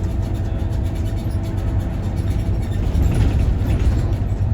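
Scania OmniLink city bus driving, heard from inside the cabin: a steady low engine and road rumble with a faint steady whine that fades out about two seconds in.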